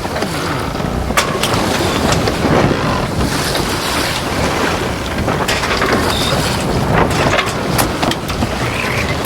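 Boat under way on a lake: wind buffeting the microphone over the rush of water, with a few sharp knocks or slaps scattered through.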